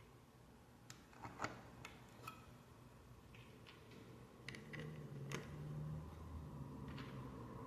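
Small plastic Lego pieces clicking and tapping as they are handled and pressed together, a few scattered sharp clicks over a faint low hum.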